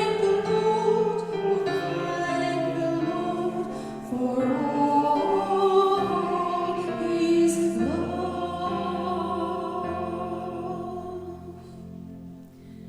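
A church congregation sings a hymn with instrumental accompaniment. It ends on a long held final chord that fades away near the end.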